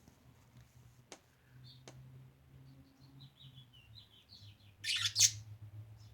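Pet budgerigars chirping: a run of quick short chirps, then a loud harsh call about five seconds in. Two sharp clicks come earlier.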